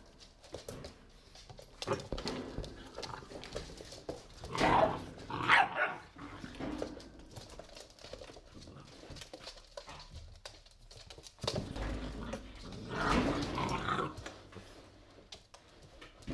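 Three-month-old pit bull puppies barking during play, in two short bouts, about five seconds in and again about thirteen seconds in.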